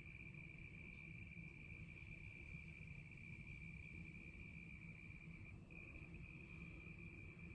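Crickets trilling in one steady, continuous high tone, faint, over a faint low rumble.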